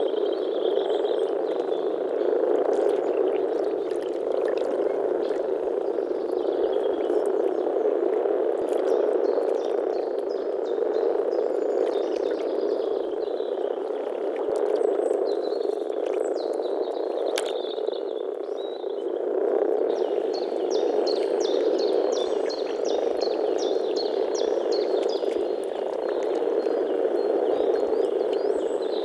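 A chorus of common frogs (Rana temporaria) calling, a dense, continuous low purring croak from many males together. Near the end a rapid series of short high chirps sounds above it.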